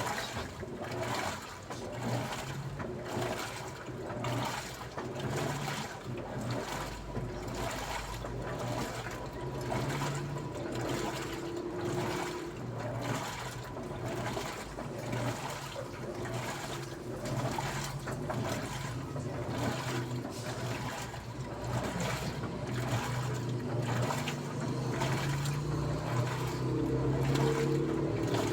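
Daewoo washing machine running with water in the drum: sloshing and swishing in regular surges a little more than once a second, over a steady low motor hum.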